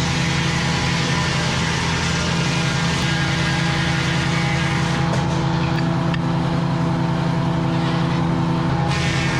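A large engine running at a steady speed, a constant loud drone with hiss above it that drops off about nine seconds in.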